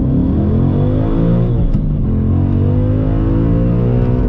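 Ford Mustang Boss 302's 5.0 L V8 accelerating hard, heard from inside the cabin. Its pitch climbs, drops sharply about a second and a half in as it shifts up a gear, then climbs again.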